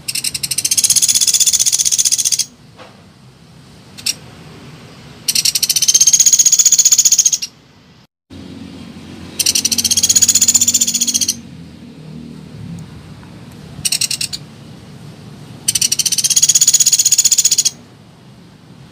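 Pelatuk beras woodpecker giving rattling trill calls: four loud bursts of rapid, high notes, each about two seconds long and coming roughly every five seconds, with a few short single chips in between.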